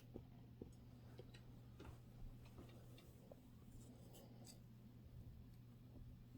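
Faint, scattered small ticks and scratches of a scalp being scratched for dandruff, over a low steady hum.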